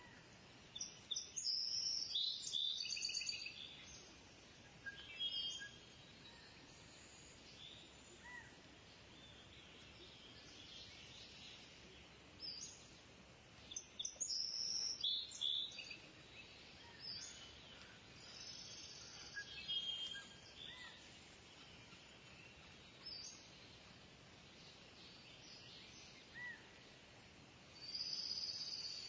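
Kingfisher calling: bursts of shrill, high-pitched calls and rapid trills every few seconds, over a faint steady background hiss.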